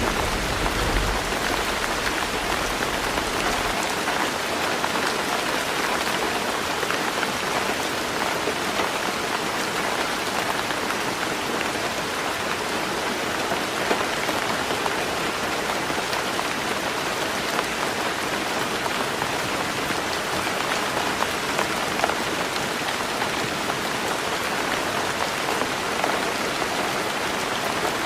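Heavy rain falling steadily on a tin roof, a dense, even patter of drops. A low rumble of thunder dies away in the first few seconds.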